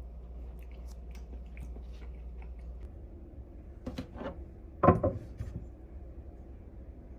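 Tableware being handled: small clinks and taps, then a couple of sharper knocks about four seconds in and a louder knock just before five seconds, over a steady low hum.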